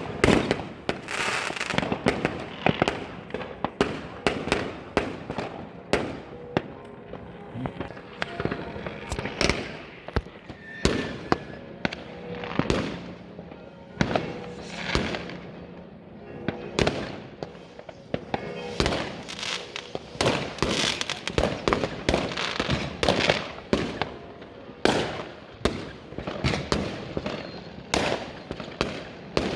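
New Year's Eve fireworks: an unbroken barrage of rocket and firecracker bangs and crackles, several a second, some near and loud, others farther off.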